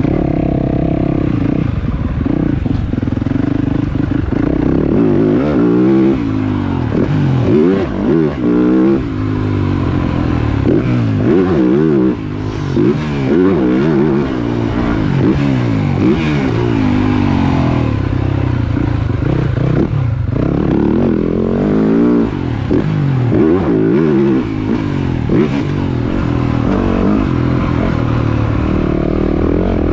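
Motocross bike engine revving, its pitch climbing and falling again and again as the throttle is opened and closed through gear changes, with brief dips where the throttle is shut.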